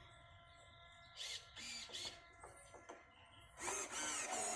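Faint steady electronic whine, several tones held together, with scattered clicks and rustles of handling, then a louder scraping rustle near the end; the nitro engine is not running.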